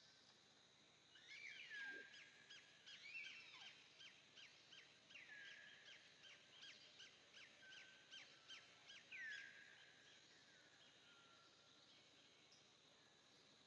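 Faint birdsong: a run of quick, high whistled notes and repeated falling calls that starts about a second in and dies away about ten seconds in.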